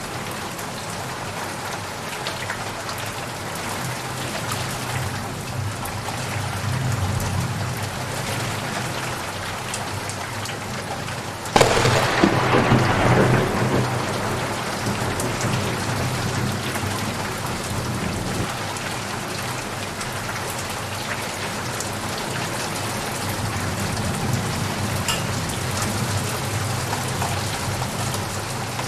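Steady rainfall with a thunderclap about a third of the way in: a sudden crack that is the loudest sound here, rumbling away over two or three seconds before the rain carries on alone.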